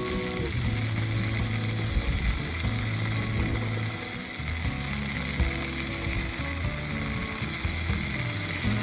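Bacon frying and sizzling over a wood fire, with scattered small crackles. Background music with held low notes plays underneath.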